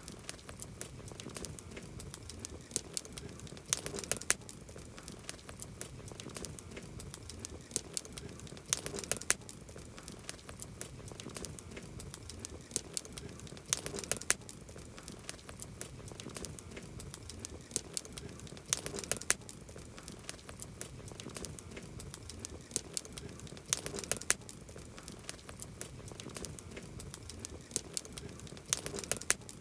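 Wood campfire crackling: a constant stream of small sharp pops and snaps over a soft hiss, with a denser flurry of crackles about every five seconds.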